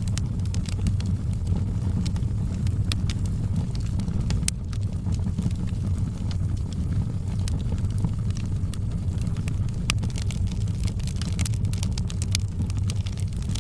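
Wood fire burning in a fireplace: a steady low rumble of flames with irregular sharp crackles and pops, coming thicker near the end.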